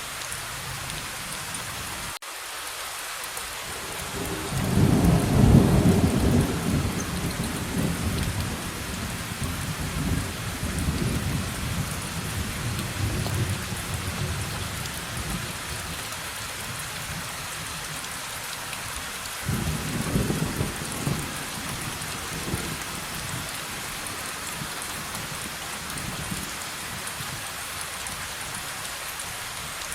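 Steady heavy rain with two rolls of thunder. A long, deep rumble builds a few seconds in and rolls on for about ten seconds, and a shorter one breaks in sharply about two-thirds of the way through.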